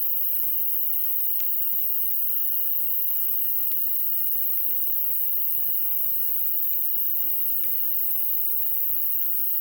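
Wood campfire burning, with scattered sharp crackles and pops at irregular intervals over a steady thin high-pitched tone.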